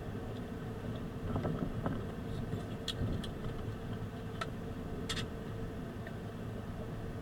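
A car driving: a steady low engine and road rumble, with a few scattered light clicks and rattles.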